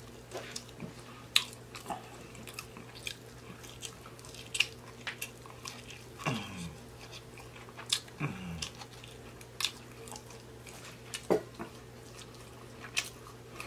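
Close-up chewing and biting on barbecued baby back ribs: wet mouth smacks and clicks at irregular intervals. Two short falling hums come about six and eight seconds in.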